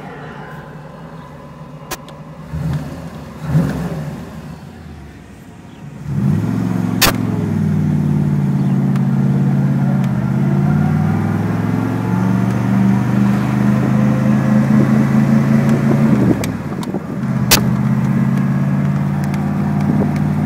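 1957 Chevrolet Corvette's 283 small-block V8 heard from the cockpit while driving: quieter at first, then the engine note swells under throttle after about six seconds and pulls steadily, dips briefly about three-quarters of the way through, and picks up again. Two sharp clicks cut through, one soon after the engine swells and one just after the dip.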